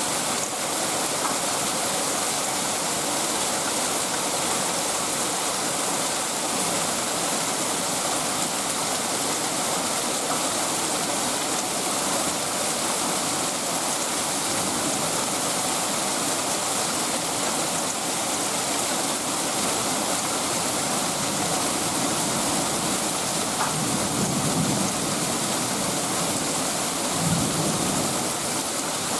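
Heavy downpour from a thunderstorm falling steadily, an even hiss with no let-up. Two brief low rumbles come near the end.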